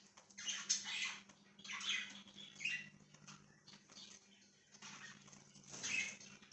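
Pet budgies chirping and chattering in short bursts, separated by brief pauses, over a faint steady low hum.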